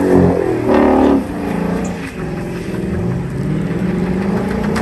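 A Ford Mustang's engine revving hard, its pitch rising and falling, as it spins its rear tyres through donuts.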